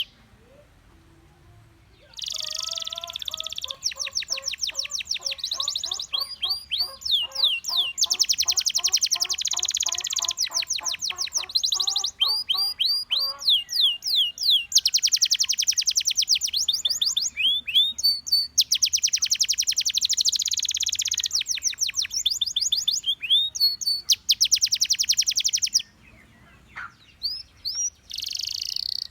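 Gloster canary singing: long runs of fast trills and rapid repeated chirps, high and sweeping, with a lower rolling series of notes in the first part. The song starts about two seconds in and breaks off for a couple of seconds near the end.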